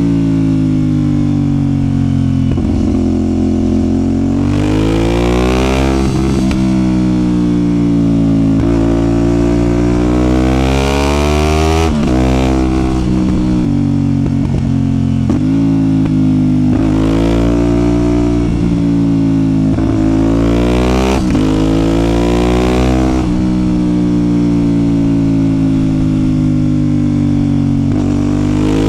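CFMOTO 450SR's 450 cc parallel-twin engine running under a riding load, its revs climbing and falling again several times as the motorcycle pulls away and rolls off in traffic.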